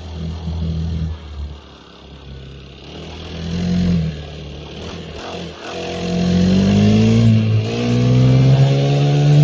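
Dirt bike engine revving: a few short blips of the throttle, then a long climb in pitch from a little past halfway that stays high and loud to the end.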